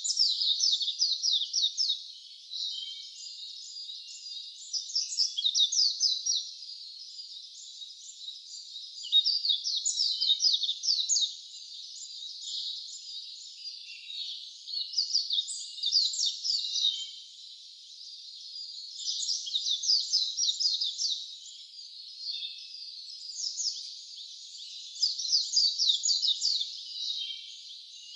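Wild songbirds singing in woodland. A loud song of rapid, high, falling notes comes in phrases of about two seconds, repeated every four to five seconds, with softer chirping in between.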